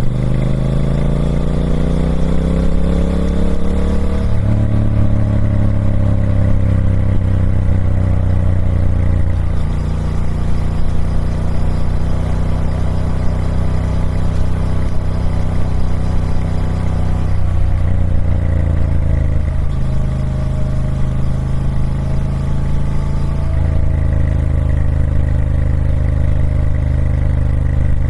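Triumph Speed Twin 1200's 1200cc parallel-twin engine through its stock exhaust, its pitch climbing for about four seconds. After a short break it runs steadier, with a few brief dips in pitch along the way.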